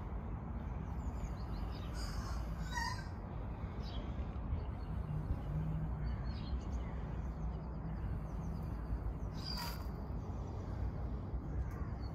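A few bird calls over a steady low background rumble: one call about three seconds in, a brighter, higher one near ten seconds, and faint chirps between.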